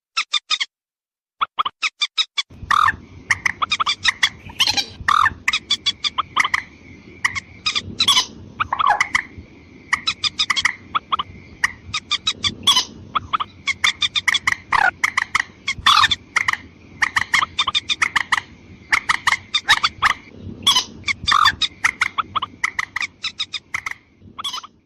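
Bird-lure recording of mandar (rail) calls: rapid runs of short, sharp repeated notes that keep coming throughout, with a steady high tone beneath them in places. A low hiss joins about two and a half seconds in.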